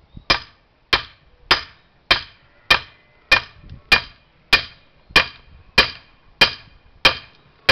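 A hammer striking metal in a steady rhythm while splitting firewood: about thirteen hard blows, a little under two a second, each with a short metallic ring.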